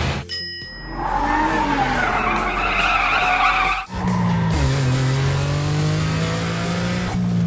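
Cartoon car sound effects: a short ringing ping, then a wavering tyre screech lasting about three seconds that cuts off, followed by a steady engine drone with a slowly rising pitch.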